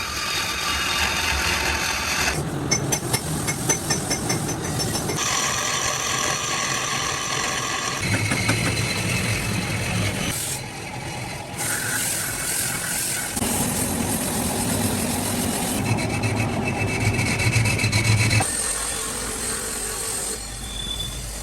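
Marble being cut, ground and polished by stone-working machines and tools, a rasping, rubbing noise in short stretches that change abruptly every two to three seconds.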